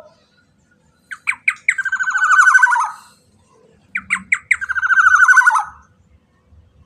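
Black-naped oriole (kepodang emas) giving two harsh calls, a few seconds apart. Each opens with a few short notes and runs into a fast rasping chatter that drops in pitch at the end.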